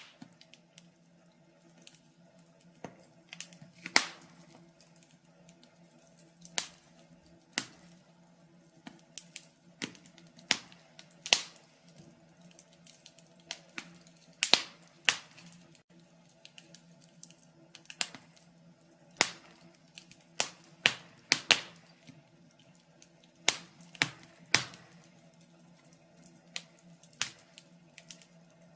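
Wood log fire crackling: irregular sharp pops and snaps, sometimes two or three in quick succession, over a faint steady low hum.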